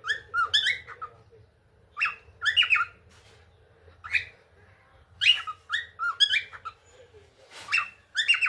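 Pet cockatiel calling in short phrases of quick chirps and whistled notes that slide up and down, with brief pauses between the phrases.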